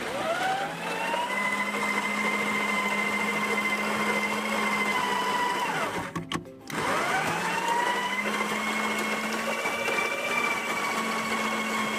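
Electric coffee grinder motor grinding coffee for espresso in two runs of about six seconds each. Each run spins up in a rising whine, holds a steady pitch, then winds down.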